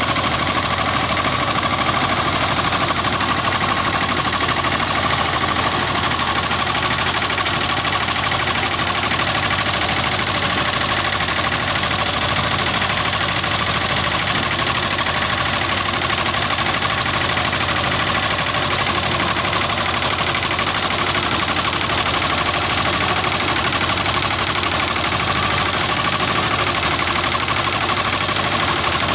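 Captain 200 DI tractor's diesel engine running steadily, its pitch and level unchanged.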